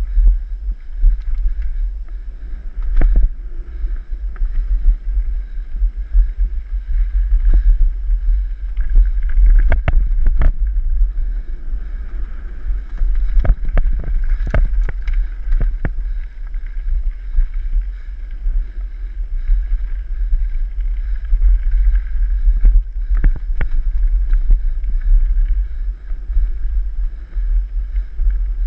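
Wind buffeting the microphone in a steady deep rumble while a mountain bike rides a rough trail, with scattered sharp knocks and rattles from the bike going over bumps, clustered about ten and fifteen seconds in.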